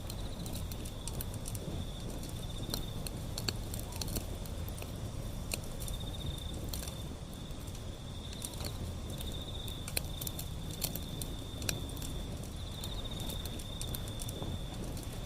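Wood fire burning, with irregular crackles and pops over a low rumble of flame. A steady, high insect trill runs beneath it, swelling in pulses now and then.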